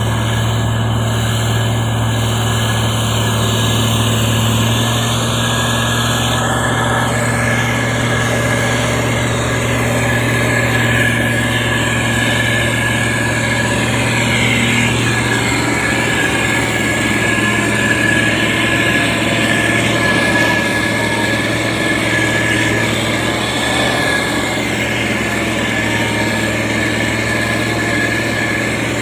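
SANY STG190C-8S motor grader's diesel engine running steadily, with a constant high whine over the engine hum.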